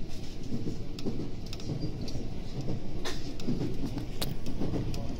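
A 521 series electric train running along the track, heard inside the car: a steady low rumble of wheels on rails with a few sharp clicks and clacks from the wheels going over rail joints or points.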